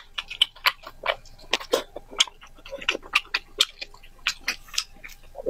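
Close-miked wet chewing and lip smacking on soft braised pig head meat, a quick irregular run of sharp smacks several times a second.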